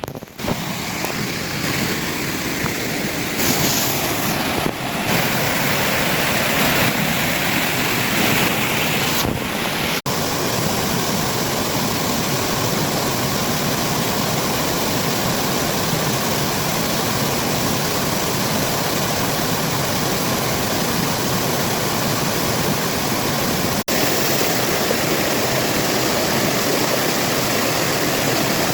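Rushing water of a small mountain waterfall on a mossy stream, a loud, steady rush that drops out for an instant twice, about ten seconds in and near the end.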